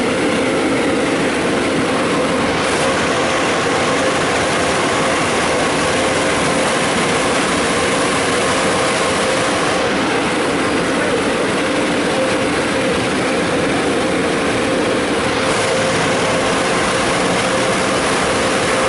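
Steady rushing noise with a constant hum inside a car's cabin while the car idles or rolls slowly.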